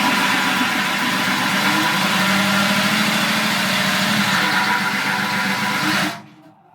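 Power drill running a blunt wood-type hole saw against painted sheet steel: a steady motor whine with the grinding of the saw's teeth on the metal. The saw is dull and not made for metal, so it barely cuts and heats the steel until the paint burns. The drill stops suddenly about six seconds in.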